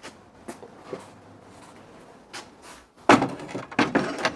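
Wood knocking and scraping: a few faint clicks, then a burst of loud, irregular knocks and scrapes from about three seconds in.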